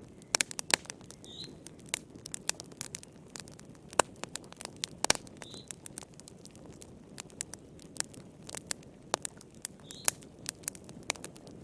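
Wood campfire crackling: irregular sharp pops and snaps over a steady low rush of the flames, a few pops much louder than the rest. A faint short high chirp sounds three times, about four seconds apart.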